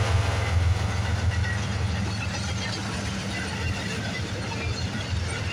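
Intermodal freight train passing close by. The low diesel hum of the trailing GE ES44AC locomotive fades over the first two seconds or so as it goes by, leaving the steady rumble of container cars rolling on the rails with a few faint wheel clicks.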